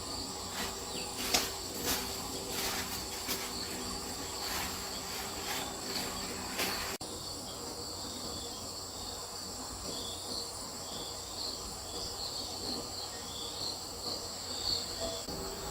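Insects chirping steadily in a shrill high drone, with scattered knocks in the first half; about seven seconds in the knocks stop and short repeated chirps stand out over the drone.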